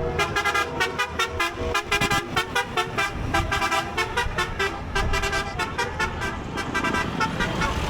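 A vehicle horn in the procession sounding a rapid string of short toots, about four a second, the pitch changing from note to note like a melody horn, over the low rumble of passing vehicles.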